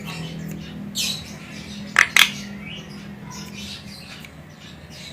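Javan myna (jalak kebo) giving harsh squawking calls: a shorter call about a second in, then two loud, sharp calls in quick succession about two seconds in, with softer chattering between.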